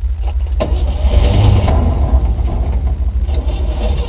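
1955 Chevrolet dump truck's engine cranking in a hard cold start, helped by ether in the carburettor. About half a second in it suddenly catches and revs up, then runs on unevenly.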